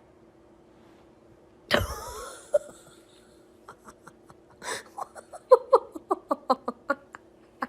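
A sudden loud sound about two seconds in, then a person laughing in a quick run of short ha's, about four a second.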